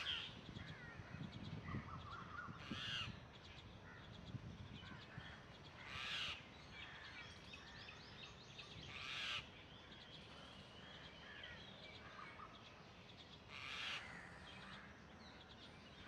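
Harsh, crow-like cawing bird calls, five of them, each about half a second long and roughly three to four seconds apart. Fainter chirps and whistles of other birds come between them.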